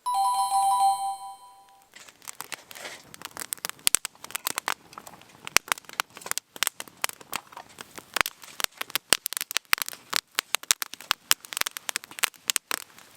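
A short two-note chime, then a wood campfire crackling, with many sharp irregular pops and snaps that grow denser toward the end.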